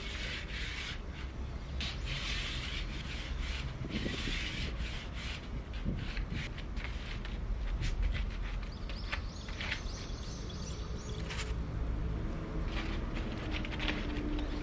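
Repeated rubbing strokes on wooden trim strips, a rasping swish every second or two with small clicks and knocks between strokes.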